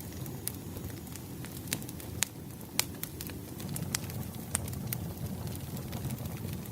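Wood bonfire burning low as it dies down: irregular sharp pops and crackles over a steady low rumble.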